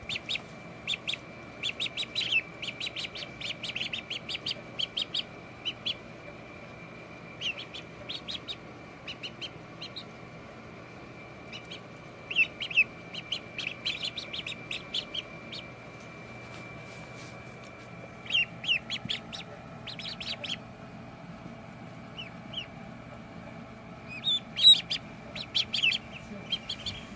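Ducklings peeping: clusters of short, high chirps with a few quiet gaps, over a faint steady high tone.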